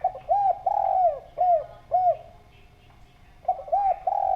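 Spotted dove cooing: a phrase of about five short arched coos with one longer coo second in line, then a pause and a second phrase beginning near the end.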